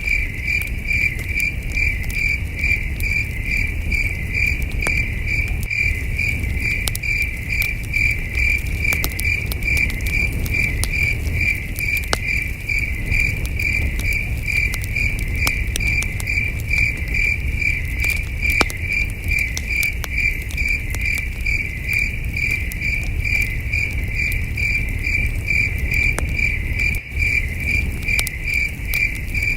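Crickets chirping in a steady, even rhythm, with sharp crackles and pops from a campfire scattered through it over a low rumble.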